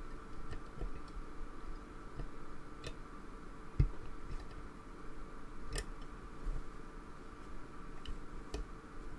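Faint, irregular metallic clicks and scrapes of a lock pick working the pins of a pin-tumbler lock held under tension, with a dull knock about four seconds in and a sharper click about six seconds in.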